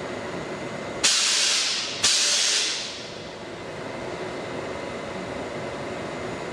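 Two sharp hisses of compressed air venting from a train's pneumatic system, the first cut off abruptly and the second fading away over about a second, over steady station noise.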